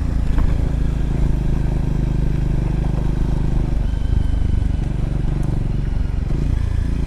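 Triumph Scrambler motorcycle engine running steadily under way on a gravel road; its note changes and wavers for a couple of seconds in the middle, then settles back to a steady drone.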